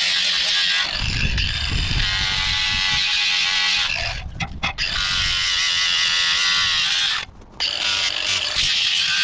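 Electric grinder grinding rust off a steel crowbar: a steady high motor whine with a scraping hiss of metal. It drops out briefly twice, the second time nearly to nothing.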